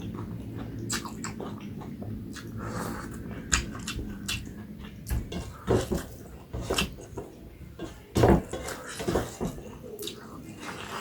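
A person eating rice and curry close to the microphone: wet chewing and smacking in irregular bursts, with sharp clicks, the loudest a little after the middle.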